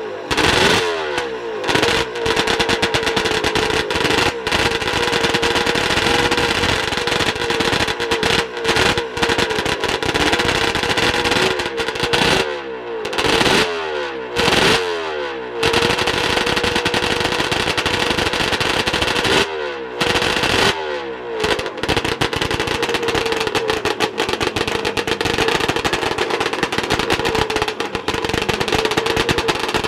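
Suzuki-based 750 cc two-stroke triple race engine running with a rapid, crackling clatter, revved in a series of throttle blips with the sound dropping away sharply between them, then running more steadily over the last several seconds. A touch noisy.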